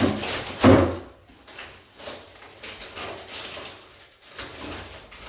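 Wooden cabinet parts scraping and creaking in a run of irregular strokes as the cabinet is forced apart by hand, with the loudest scrape a little under a second in.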